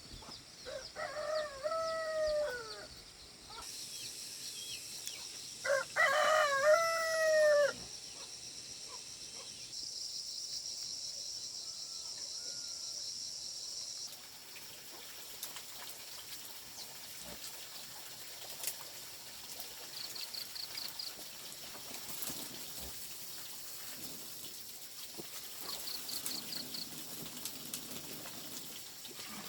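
A rooster crowing twice, the second crow louder, over a steady high-pitched chorus of crickets.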